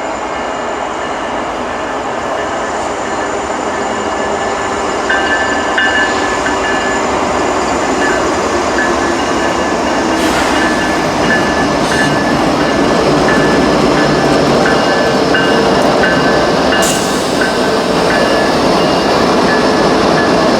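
CN freight train rolling past at close range: a steady rumble and rail noise from the wheels, growing slightly louder, with a few sharp clicks from the wheels on the rail joints.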